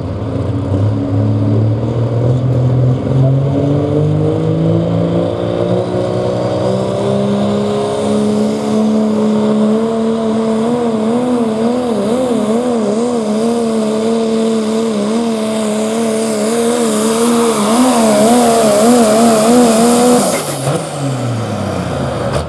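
Pro Stock diesel pickup engine at full throttle pulling the sled. Its pitch climbs steadily for about ten seconds, then wavers rapidly up and down while it is loudest. About twenty seconds in it cuts off and the revs fall away.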